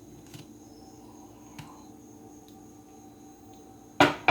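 A low steady hum with a few faint clicks, then a sharp knock and rattle about four seconds in as the dish of steamed rice-roll batter is taken out of the microwave oven and set down.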